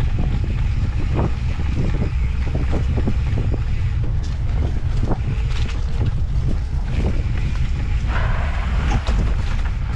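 Wind buffeting the microphone as a loud, steady low rumble while an off-road handcycle rolls along a dirt trail, with scattered clicks and knocks from the bike over the ground.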